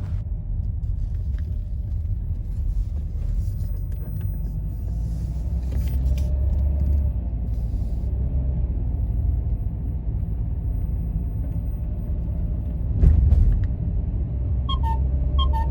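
Low, steady road and engine rumble inside a moving car, with a brief louder jolt about 13 seconds in. A few short electronic beeps sound near the end.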